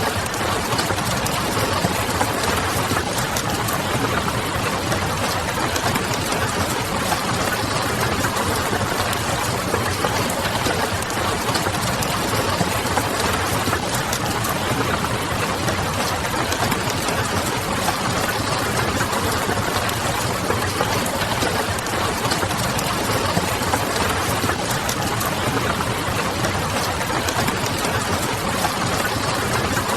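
Steady rain noise mixed with the crackle of a wood fire, over a low, even hum like distant city traffic.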